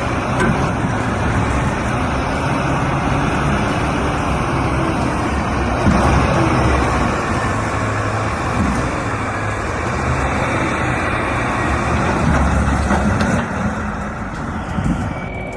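Heavy diesel vehicle engine running, a steady low rumble with mechanical noise over it.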